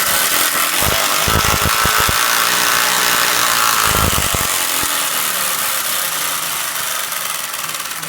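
Playing cards clipped against a bicycle's spokes, flapping in a fast, loud buzzing rattle as the bike is ridden to imitate a motorbike. The rattle fades over the last couple of seconds.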